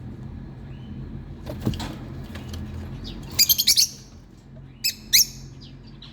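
Birds calling: a quick run of about five sharp, high calls, then two more a second later, over a steady low hum. A short knock comes shortly before the calls.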